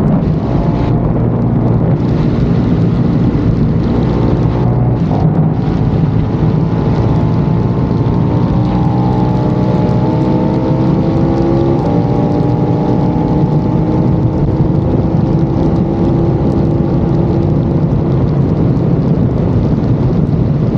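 KTM Super Duke V-twin engine at speed, revs easing off early, then climbing steadily through the gears with a gear change about twelve seconds in. Steady wind rush on the bike-mounted microphone.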